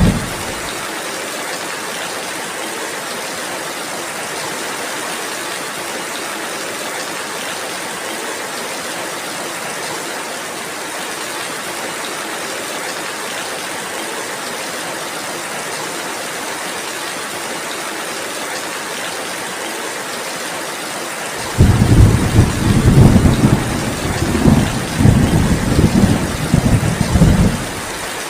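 Steady rain falling. About 21 seconds in, a deep rolling rumble rises and swells for around six seconds before falling away.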